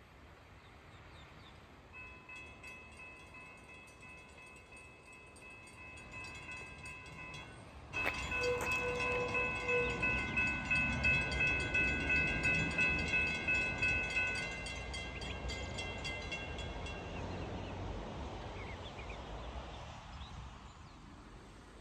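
Railroad grade-crossing warning bell ringing with a steady, fast pulse. It is faint at first, gets suddenly louder about a third of the way in, and stops a few seconds before the end, with a low rumble building underneath.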